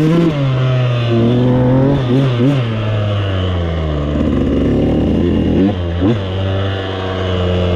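Husqvarna TC85's 85cc two-stroke single-cylinder engine running under way, its pitch rising and falling with the throttle. The level drops briefly a few times, around two seconds in and again near six seconds, as the throttle is rolled off.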